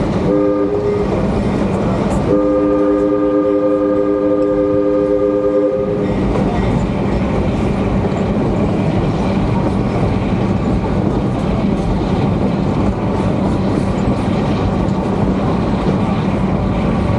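Georgetown Loop Railroad train's chime whistle sounding a short blast, then a long blast of about three and a half seconds starting about two seconds in. After that the train runs on with a steady rumble and the clatter of the cars.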